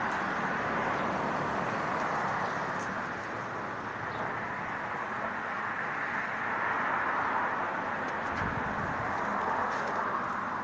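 Steady, even rushing noise of outdoor ambience, with no single clear event standing out.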